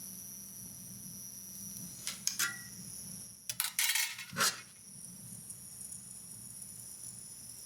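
Light metallic clinks and scrapes of a brazing rod working against sheet steel as a hole is filled: a few ticks about two seconds in and a louder cluster around four seconds. A steady high hiss runs underneath.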